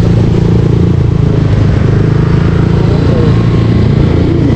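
Yamaha Aerox V2 scooter's single-cylinder engine running steadily through an aftermarket JVT V3 exhaust while riding, a loud, even low drone.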